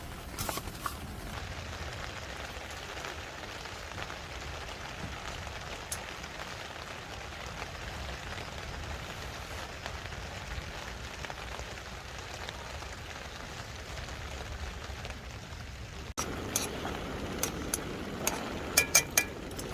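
Steady hiss of rain falling on a campsite. Near the end it turns louder, with a few sharp clicks.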